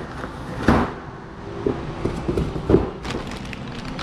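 Rummaging through a cardboard box of suspension control arms: rustling, with several knocks and clunks as the metal parts are handled and moved about.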